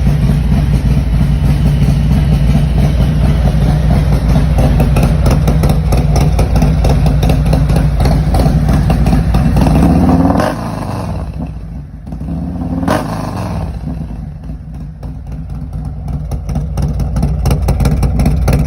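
Harley-Davidson Milwaukee-Eight V-twin with a Star Racing 30/30 cam, running with a steady, deep exhaust note. About ten seconds in the revs rise, then the sound drops away suddenly, with a short throttle blip a few seconds later before it builds back up toward the end.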